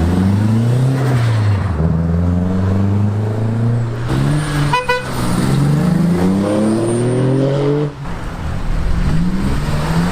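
Car engines pulling away under acceleration, their pitch climbing and then dropping at each gear change, several times over. A short car horn toot sounds about five seconds in.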